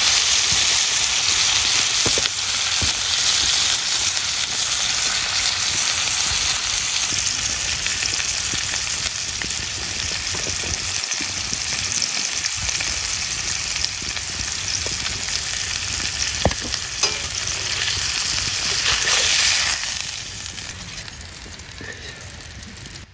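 Food sizzling hard in a hot frying pan, a steady dense hiss with a few small ticks and pops. The sizzle fades away over the last few seconds.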